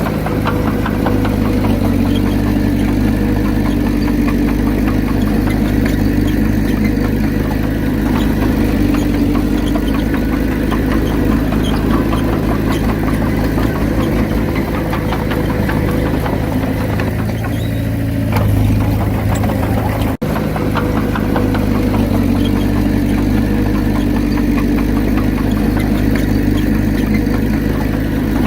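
Diesel engine of heavy earthmoving machinery running steadily under a low, even drone, with a momentary drop-out about 20 seconds in.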